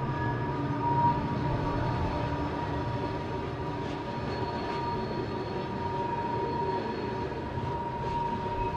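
Freight train rolling past: a steady rumble of wheels on rail with a thin, steady whine over it.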